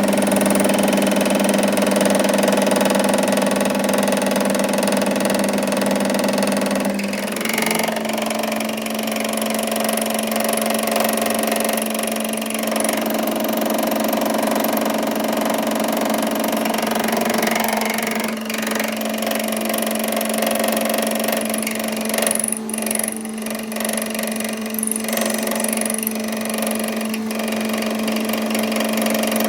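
A machine's motor or engine running with a steady hum, its pitch shifting slightly about seven seconds in and again near eighteen seconds.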